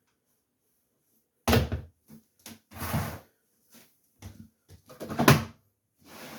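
Knocks and bangs from handling a front-loading washing machine while loading it, with a sharp bang about a second and a half in, a short scuffling noise, smaller knocks, and another loud bang near the end.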